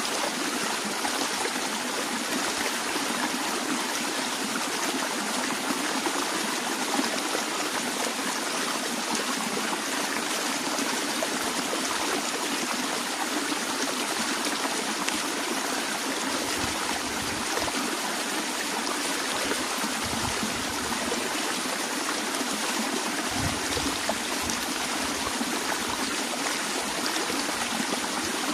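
Stream water flowing and trickling steadily, with a few brief low thumps in the second half.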